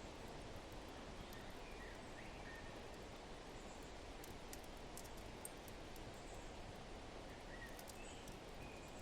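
Faint steady rush of wind with a few soft bird chirps, some about a second in and more near the end, and light crackling ticks from a fireplace.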